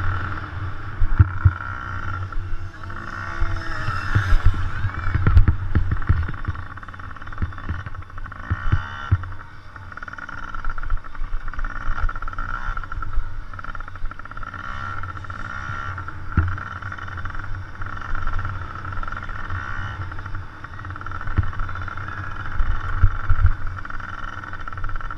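Motocross dirt bike engines running and revving on the track, with a steady high buzz and pitch rising and falling. Frequent low thumps hit the microphone.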